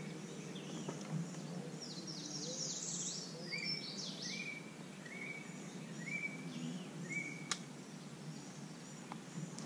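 Wild birds singing and calling: a short call note repeated about once a second, and a brief burst of higher chirping early on, over steady low background noise. One sharp click comes late on.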